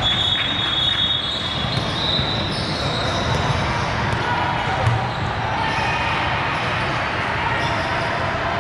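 Basketball game sounds: the ball bouncing on the court and spectators talking. A high, steady squeak is held for about the first three seconds.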